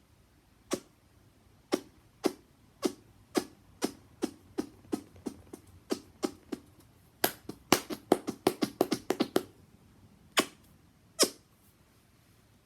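Hand noises: a series of sharp pops made with the hands, spaced about a second apart at first, then coming faster into a rapid flurry, followed by two more single pops.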